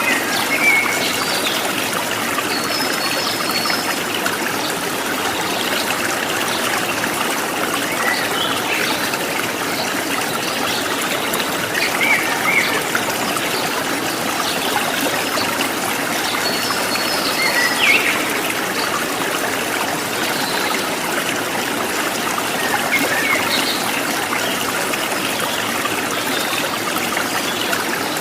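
Stream water running and trickling steadily, with short bird chirps now and then.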